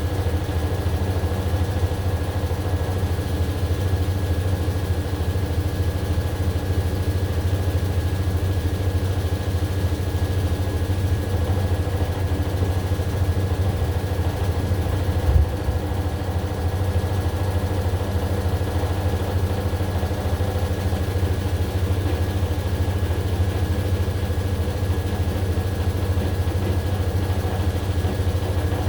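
AQUA AQW-DX12M drum-type washing machine running steadily, with its motor humming and a thin, steady whine over it. A single thump comes about halfway through.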